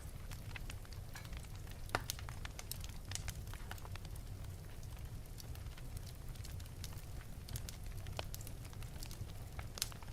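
Wood fire burning in an open fireplace: scattered crackles and sharp pops over a steady low rumble of the flames, with a louder pop about two seconds in and another near the end.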